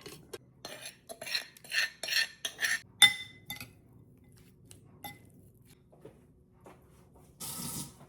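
Utensils clinking and scraping against a bowl as a Thai mango salad is tossed and stirred: a quick run of clinks, one sharp ringing clink about three seconds in, then a few light ticks and a short scrape near the end.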